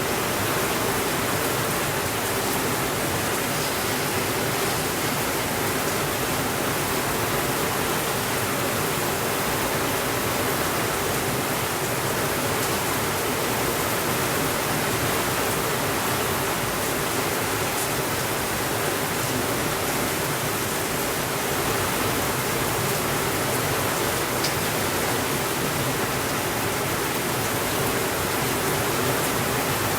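Steady rainfall, an even hiss with no changes.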